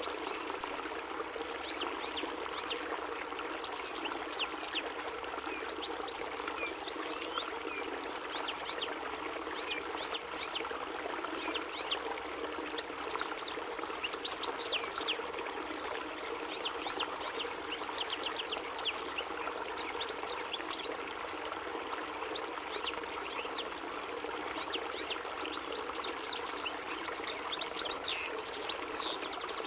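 European goldfinch singing: quick runs of short, high, twittering chirps that come in clusters, over a steady background hiss like running water.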